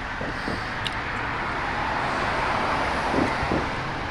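Steady road traffic noise, swelling as a vehicle passes through the middle, with a light click about a second in and two short, faint thumps near the end.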